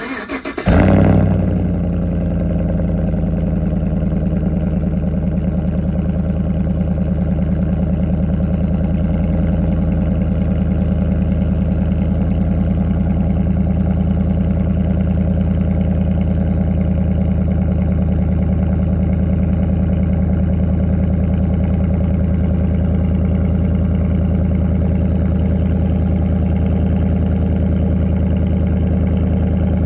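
Car engine with a straight-pipe exhaust cold-starting: a brief crank, then it catches with a loud flare about a second in and settles into a steady idle.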